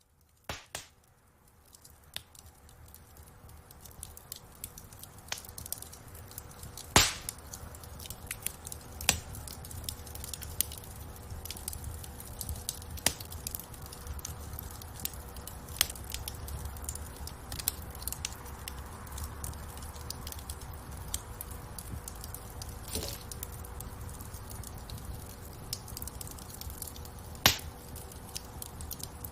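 Wood fire in a fireplace crackling, with many small snaps over a low steady rumble of flames and two loud pops, one about a quarter of the way in and one near the end. The sound fades in from near silence over the first few seconds.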